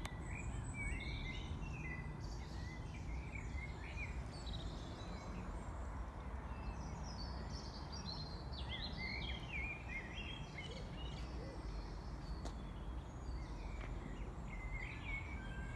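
Birds chirping and singing over a steady low outdoor rumble.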